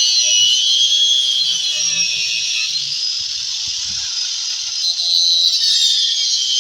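Hand-held grinder cutting into a wooden subwoofer box: a steady, high, hissing whine that wavers in pitch as the blade works through the panel, easing a little midway.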